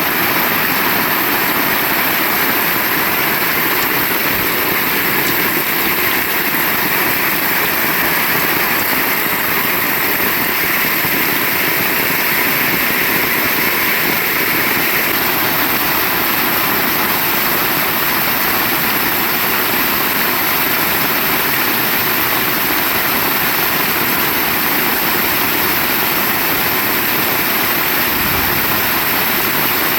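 Heavy rain pouring down in a steady, loud, even rush.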